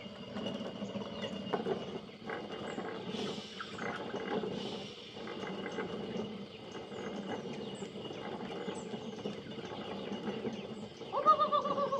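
Hand-turned stone mill grinding corn: the stones rumble and scrape against each other without a break as the upper stone is turned. Shortly before the end there is a brief wavering call.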